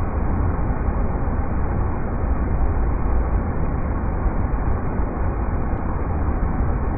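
River rapids rushing: a steady, dull rumble of moving water, deepest and strongest in the low end, with no change throughout.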